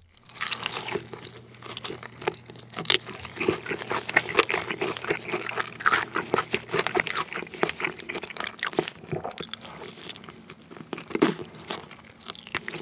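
Crunching and chewing of crispy Korean fried chicken: a dense, continuous run of crisp crackles from bites into the fried coating and from chewing.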